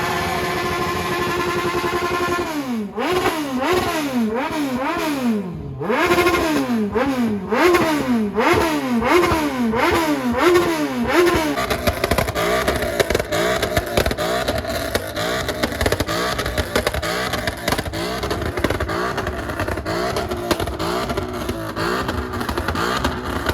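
A vehicle engine held at a steady raised rev, then from about three seconds in blipped over and over, the pitch jumping up and falling back a little more than once a second for about nine seconds. After that it settles into an uneven, wavering run.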